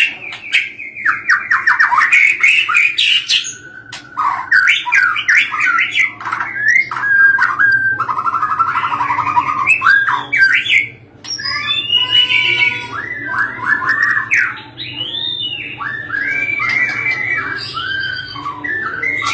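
White-rumped shama (murai batu) singing a long, varied song of clear whistles, fast trills and harsh chattering notes, phrase after phrase without a break.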